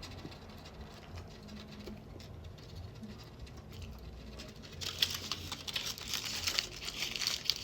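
Faint wet mouth smacking of chewing. About five seconds in, a louder crinkling and rustling of a food wrapper starts close to the microphone.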